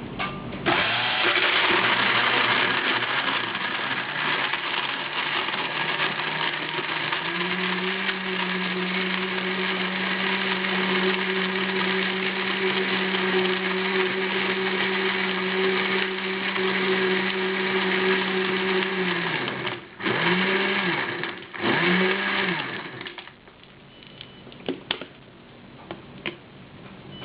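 GTM-8313 blender running continuously, its motor noise settling into a steady hum after several seconds. It is then switched off and given two short pulses, each spinning up and back down, with a few light clicks near the end.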